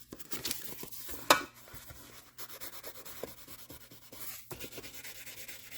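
2000-grit wet/dry sandpaper rubbed by hand over soft metal car trim, a quick run of light rubbing strokes, with one sharp click a little over a second in.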